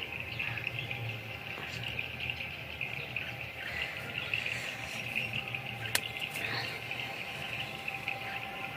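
Morning chorus of a steady insect trill with small birds chirping over it. A single sharp click about six seconds in.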